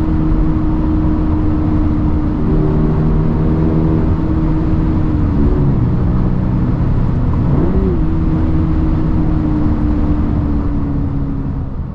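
Toyota GR86 / Subaru BRZ 2.4-litre flat-four running through a COLBASSO Ti-R Plus straight-through titanium single-exit muffler, held at steady revs with two brief rev swings around the middle. The sound fades out near the end.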